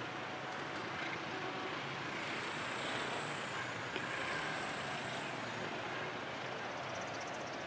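Passenger train pulling away along the tracks, giving a steady running noise as it recedes. A faint high squeal comes and goes twice about midway.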